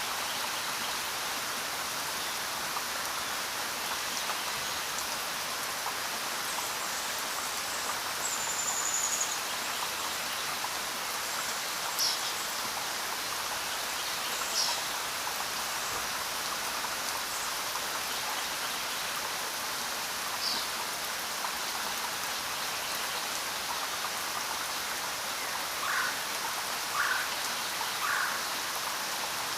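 Steady rainfall, an even hiss throughout. A few short bird chirps are scattered through it, with three in quick succession near the end.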